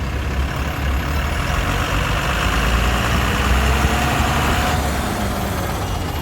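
Truck engine running steadily with a low rumble, and a rushing hiss over it that drops away near the end.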